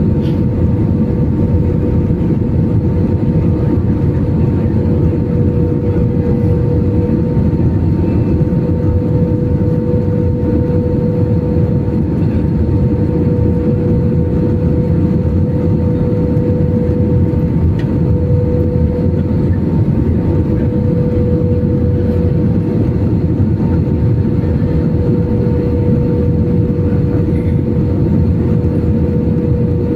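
Airliner cabin noise in flight: a constant engine drone and rushing air, with a steady hum holding one pitch.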